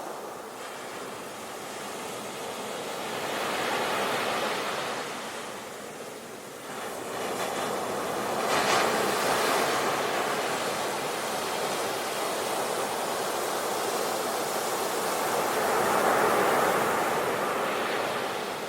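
Sea waves breaking and washing up on the shore, swelling and easing in turn: one surge around four seconds in, a stronger break about halfway, and another near the end.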